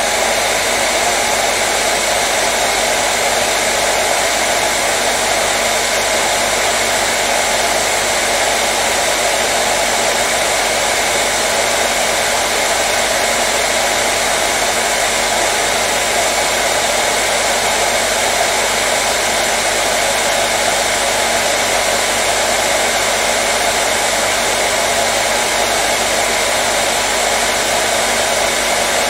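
Hair dryer running steadily, a constant blowing whoosh with a faint steady whine in it.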